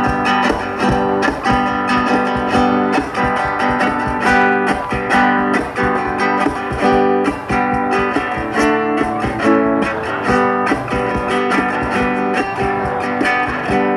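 Guitar music: plucked notes picked in a continuous, even pattern, with no singing.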